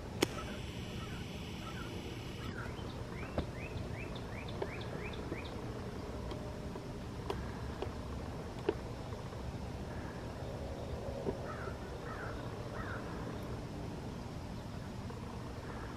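A songbird calling a quick run of short rising notes a few seconds in, and three more near the end, over a steady low rumble, with a few sharp clicks scattered through.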